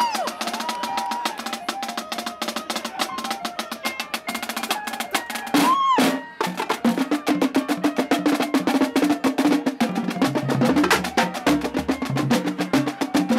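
Marching drumline playing a fast cadence: rapid snare strokes over pitched tenor drums, with bass drums coming in about ten seconds in. A brief rising-and-falling whoop cuts in around six seconds.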